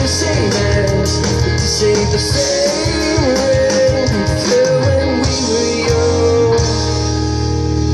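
Live rock band playing an instrumental passage: a lead guitar line sliding and bending between notes over bass, drums and cymbals, settling into a held chord near the end.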